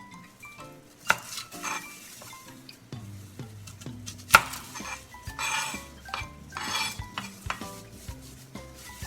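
Metal kitchen utensils knocking and scraping against a cooking pot, with a sharp clank about four seconds in as the loudest sound. Light background music with short mallet-like notes plays underneath.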